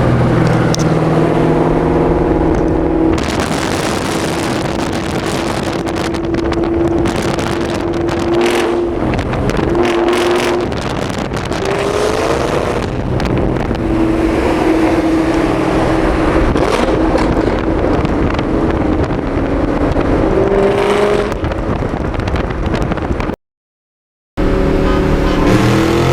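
A car engine held at high, steady revs for long stretches, its pitch briefly dipping and climbing a few times, under a loud hissing noise. The sound cuts out completely for about a second near the end.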